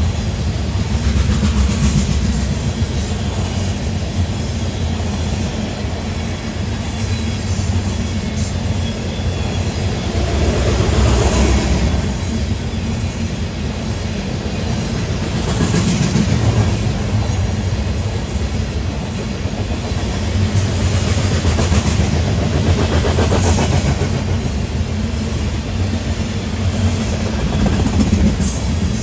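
Freight train of tank cars rolling past: a steady rumble of steel wheels on the rail, with a recurring clatter every few seconds as each car's wheel sets go by.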